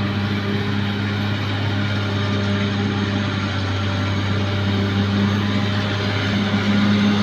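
Bulldozer's diesel engine running steadily under work, a continuous low drone. Its upper tone grows stronger for the last second or so.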